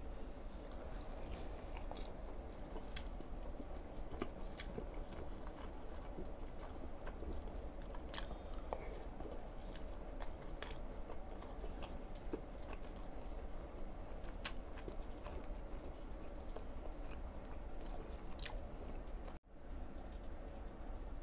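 Close-miked chewing and biting of food: soft, scattered wet mouth clicks and crackles over a steady low hum.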